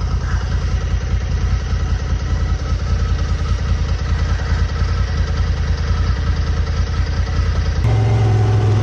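Off-road vehicle engine idling steadily with a fluttering rumble. Near the end the sound changes abruptly to a steadier, deeper engine hum.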